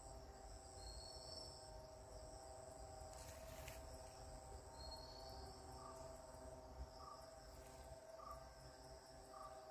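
Faint night-insect chorus of crickets, with a steady high trill and shorter rising chirps over it. A brief hiss comes about three seconds in, and four short soft calls come about a second apart in the second half.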